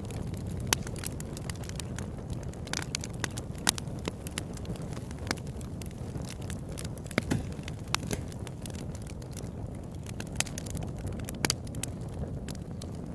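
Campfire burning: a steady low rumble of flames with frequent irregular pops and crackles from the burning wood, a few of them louder snaps.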